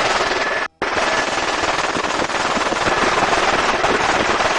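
Helicopter in flight with its cabin door open: dense, steady rotor and engine noise with a rapid chopping pulse and a faint steady whine. The sound cuts out for a split second near the start.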